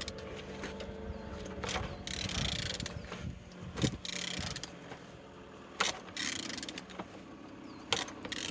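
A removed engine being turned over by hand with a wrench on the crankshaft: a run of ratchet clicks and knocks with short hissing rushes about every two seconds. It turns freely, the sign the engine is not seized.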